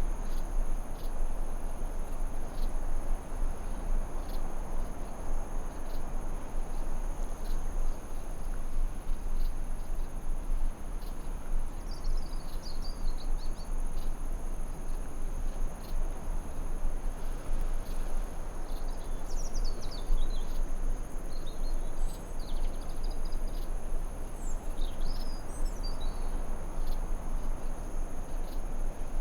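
Forest ambience: crickets and other insects trilling steadily at a high pitch over a constant background hiss, with a few short bird chirps near the middle and again toward the end.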